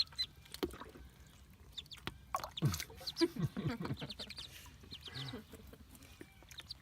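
Day-old Muscovy ducklings peeping: clusters of short, high, repeated chirps.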